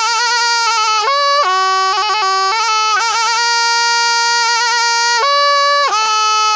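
Thai pi oboe played solo in a continuous melody. Long held notes change pitch several times, decorated with quick wavering trills, and the sound never breaks.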